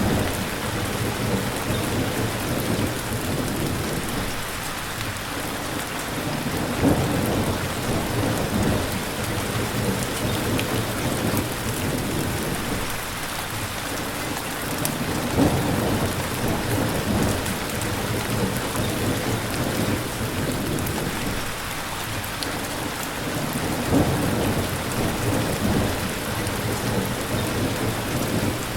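Steady rain with low rolling thunder underneath, swelling and fading several times.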